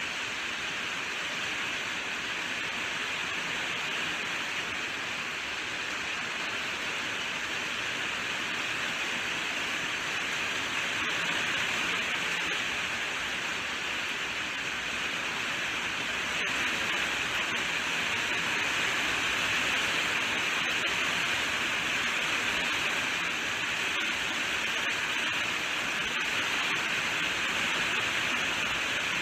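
Steady heavy rainfall, an even hiss with a few faint sharp ticks, growing slightly louder after about ten seconds.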